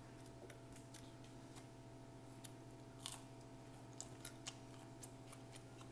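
Faint chewing and small mouth clicks from eating McDonald's chicken nuggets, with a few sharper clicks about three to four and a half seconds in.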